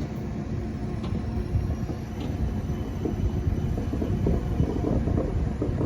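Light rail test tram running on the track: a low rumble that slowly grows louder, with irregular rattling building from about three seconds in.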